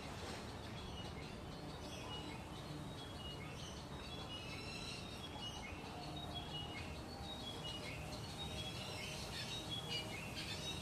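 Small birds chirping and calling, with many short high notes, often in quick falling runs, over a steady low background hum.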